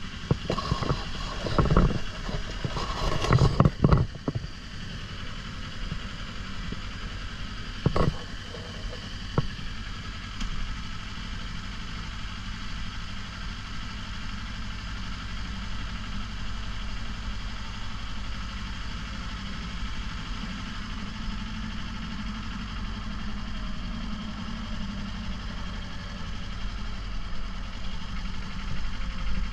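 2024 Kawasaki Ninja 500's parallel-twin engine running steadily at low revs. A few loud bumps come in the first four seconds and a sharp knock about eight seconds in.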